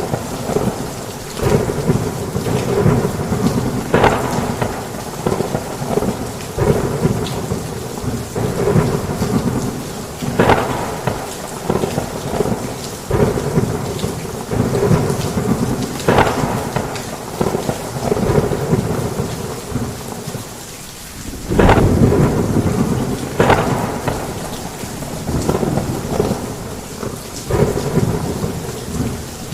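Heavy rain pouring steadily, with thunder rumbling and cracking every few seconds. After a brief lull, the loudest peal comes about three-quarters of the way through.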